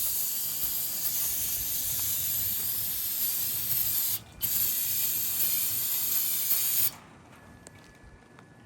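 An aerosol can of cleaner spraying onto a bare engine block in a long steady hiss. It stops briefly a little past four seconds in, sprays again, and cuts off about seven seconds in.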